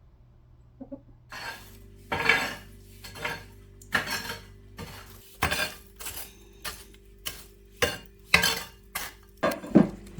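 Dishes, pots and cutlery clattering: about a dozen irregular clinks and knocks starting a second or so in, over a faint steady hum.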